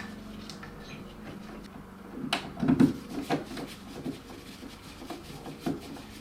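Hands pushing a fan wall controller and its wires into a crowded electrical box: scattered scrapes, rubbing and small plastic clicks, with the loudest cluster of knocks a little over two seconds in.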